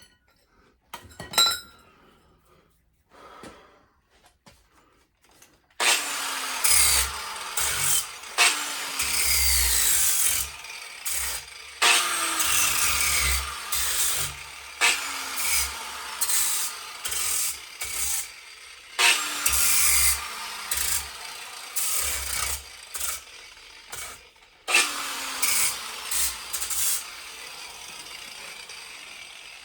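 Metal being cut or ground on a steering shaft, starting about six seconds in after a few light clinks. It comes in repeated bouts, each with a ringing tone that falls in pitch, and irregular low thumps between them.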